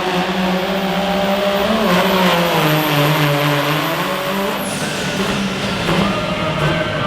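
A pulling vehicle's engine running hard and loud. Its pitch sags in the middle and picks up again.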